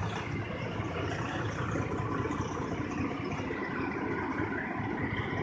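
Semi truck's diesel engine running steadily at low revs.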